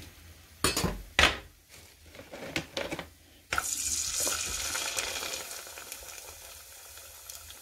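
A few sharp knocks in the first second or so, then about three and a half seconds in a raw kerupuk cracker goes into hot oil in a stainless steel pot and starts sizzling, a hiss that fades slowly as it fries.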